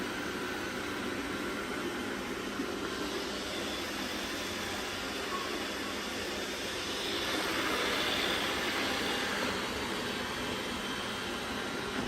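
Robot vacuums running, a steady machine hum and whir of their motors and brushes, growing louder for a couple of seconds a little past the middle.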